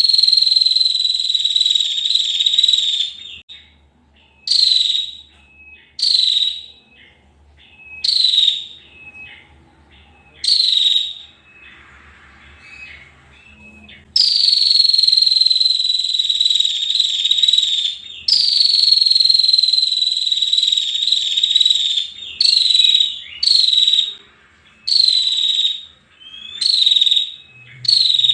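Female prinia (prenjak) giving repeated harsh, buzzing calls that fall slightly in pitch. Some calls are drawn out to three or four seconds; others are short, about a second each, with brief pauses between.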